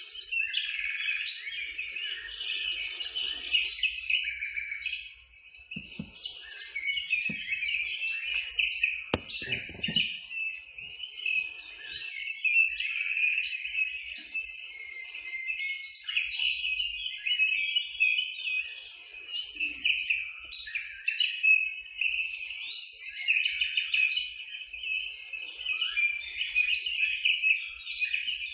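A busy chorus of birds chirping and calling continuously, with a few dull low thumps a third of the way in.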